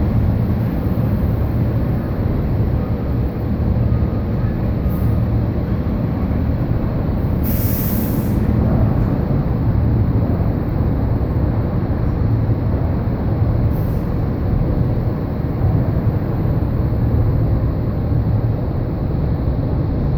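Fire apparatus diesel engine running with a steady low rumble, with a short hiss of air brakes being released about eight seconds in.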